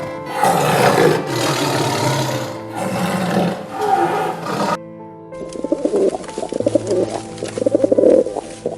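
An animal roaring in repeated loud calls over background music, cut off about five seconds in. After a short gap comes a rhythmic, pulsing cooing call, like a pigeon or dove.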